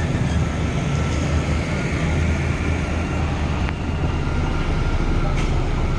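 Bulldozer's diesel engine running steadily, a continuous deep hum at an even level.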